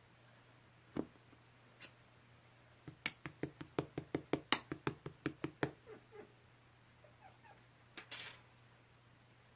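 Slime being worked by hand, giving a run of sharp clicking pops, about five a second, with a few single pops before it and a short burst of them near the end.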